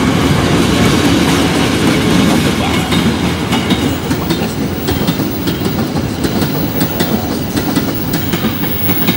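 KAI CC 206 diesel-electric locomotive passing close by with its engine running, followed by a string of ballast hopper wagons rolling past. The engine rumble dominates at first; from about three seconds in the wagon wheels click and clatter over the rails as the sound slowly fades.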